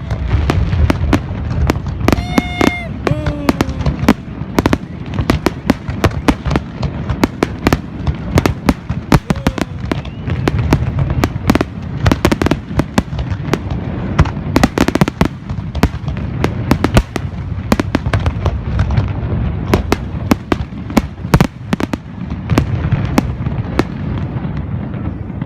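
Fireworks display: a dense, unbroken barrage of sharp bangs and crackles, many a second, over a low rumble.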